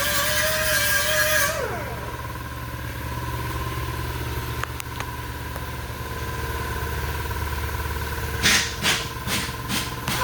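Car engine held at high revs with a steady whine, then dropping back to a low idle rumble about two seconds in. Near the end come several short, sharp blips.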